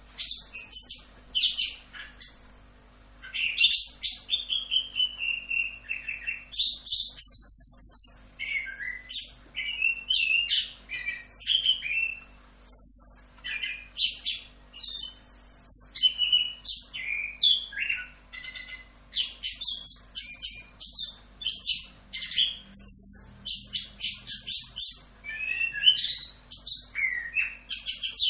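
Chestnut-capped thrush (anis kembang) singing a long, continuous, varied song of quick whistles, slurred notes and rapid trills, one phrase running into the next. This is the full rolling song (ngerol) used as a tutor recording.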